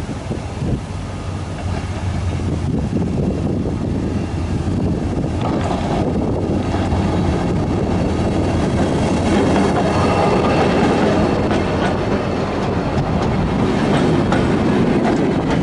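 A GM GT22 diesel-electric locomotive runs into the station and past at close range, its rumble growing steadily louder. Its passenger coaches then roll by.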